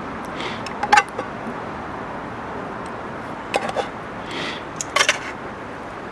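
Camp cookware and utensils clinking and clicking a few times, about a second in, around three and a half seconds and around five seconds, over a steady low hiss.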